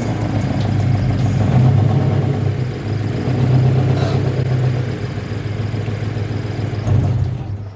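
Car engine and exhaust droning while driving, easing off and picking up again a few times, cutting off suddenly near the end.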